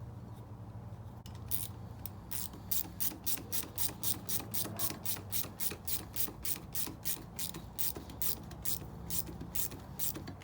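Evenly spaced mechanical clicking, about three clicks a second, starting a second or so in, over a low steady hum.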